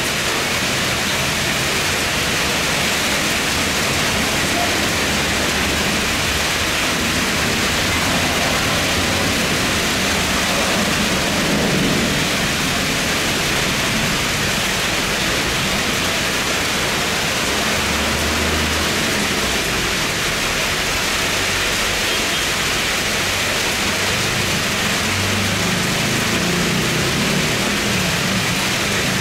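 Rain falling steadily, an even hiss. Under it is the low rumble of a Boeing 747 freighter's jet engines, which grows stronger in the second half as the jet lands on the wet runway.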